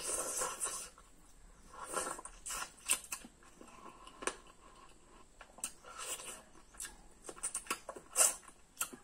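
Close-miked eating sounds: wet chewing and lip smacks of a mouthful of chicken curry and rice eaten by hand, full of short sharp clicks, with a few louder smacks, the loudest about eight seconds in.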